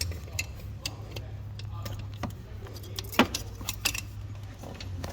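Scattered metallic clicks and clinks of hand tools working on metal parts in an engine bay, one sharper clink about three seconds in, over a steady low hum.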